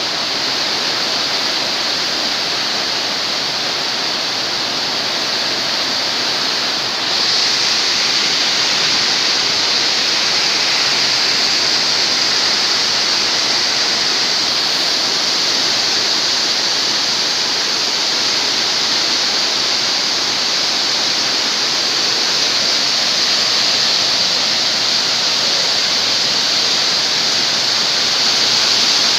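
Strong wind blowing hard: a loud, steady rushing hiss that grows louder about seven seconds in.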